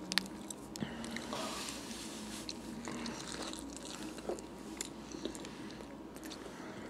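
Close-up chewing and biting of a soft, untoasted roast beef sub, with scattered small wet mouth clicks, the sharpest about a quarter second in.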